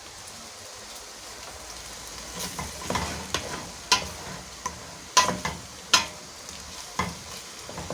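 Chicken and onion sizzling in hot oil in a cooking pot while being stirred, with a utensil clacking and scraping against the pot about seven times.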